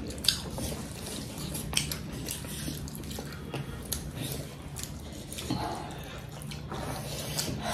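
Eating sounds: chewing and wet mouth noises, with scattered short clicks, over a steady low hum.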